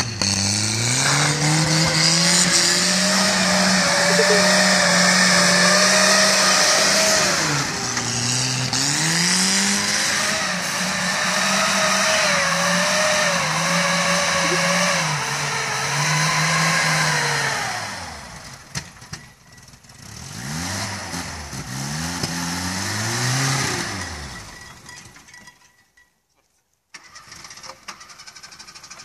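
Small soft-top 4x4's engine revving hard and held at high revs as it spins its wheels and slides in snow, the revs dropping briefly and climbing again several times. After about 18 seconds it runs more quietly in short rising and falling revs, then fades away near the end.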